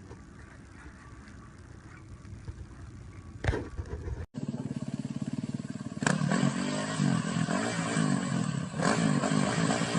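Faint background noise with a single knock about three and a half seconds in, then after an abrupt cut a motorcycle engine running with a pulsing note, getting louder about six seconds in.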